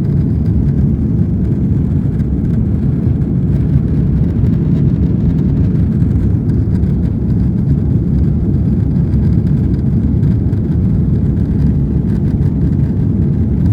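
Airbus A330-300's Rolls-Royce Trent 700 jet engines and rushing air, a steady low rumble that holds level with no change in pitch.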